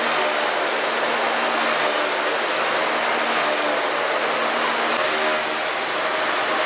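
KB-3 'Profi' three-spindle log-rounding machine running, its cutters milling a log: a loud, steady dense noise over a steady mechanical hum. The sound shifts slightly about five seconds in.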